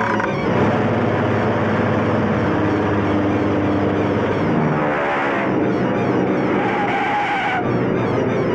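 Cartoon sound effect of a propeller airplane engine running loud and steady, its pitch sliding about halfway through.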